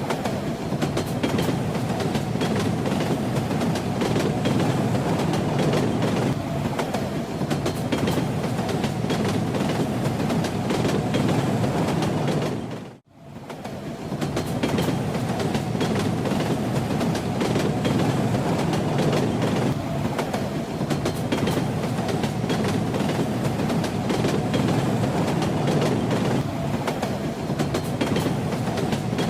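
Train running along the rails: a steady rumble with the clatter of the wheels. About halfway through it fades almost to nothing for a moment, then comes straight back.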